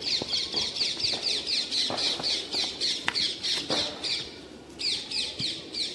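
A bird calling in a fast, even run of short, high, downward-sliding notes, about five a second; the run breaks off after about four seconds and starts again near the end. A few faint knocks sound underneath.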